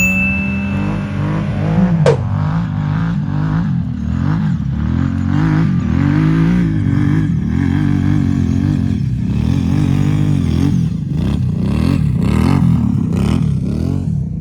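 Engine of an off-road 4x4 revving up and down over and over, with a sharp knock about two seconds in.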